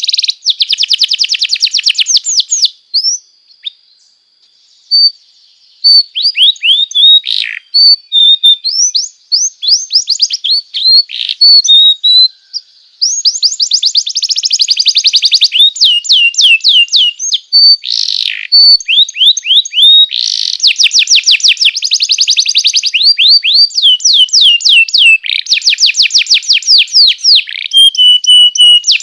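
Canary singing a long song of fast trills and rolling runs of rapidly repeated notes, with short breaks about three to five seconds in and again around twelve seconds. This is a masteran song, played for young canaries to copy.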